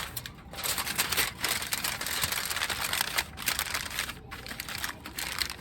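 Dense crackling and rustling, a rapid run of small clicks over a hiss, that eases off about four seconds in.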